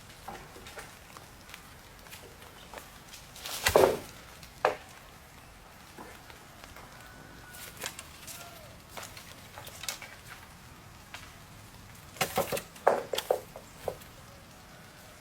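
Scattered rustles, crackles and knocks, like brush and wood being handled, in two loud clusters: one about four seconds in and another near the end.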